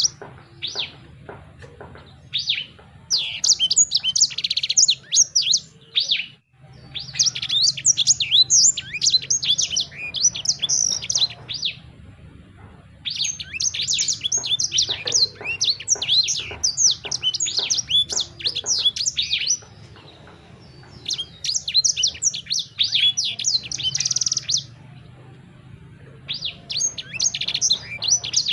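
A songbird singing in rapid bursts of high chirps and trills, about five phrases of a few seconds each with short pauses between.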